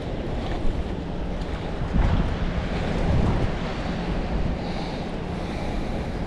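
Wind buffeting the microphone: a steady low rumble that swells in gusts about two and three seconds in.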